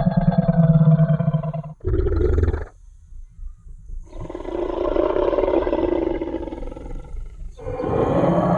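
Designed T. rex roar sound effect: a long, deep, growling roar, a short heavy low burst about two seconds in, a brief pause, then a second long roar, and a third roar beginning near the end.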